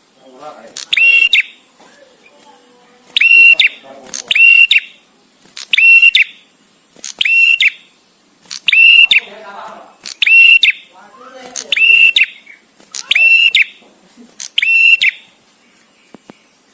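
Male prenjak tamu (a prinia) calling: about ten short, shrill, identical notes, repeated every second or two with short gaps between them, some coming in quick pairs. The calls stop about a second and a half before the end.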